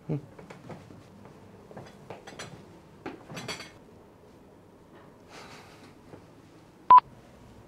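Scattered light clinks and knocks of dishes and cutlery, then one short, sharp beep near the end.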